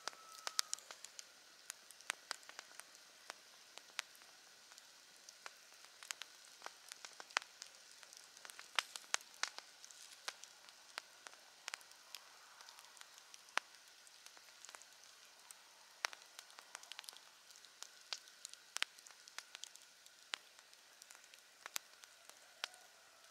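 Campfire crackling, with frequent irregular sharp pops over a soft steady hiss.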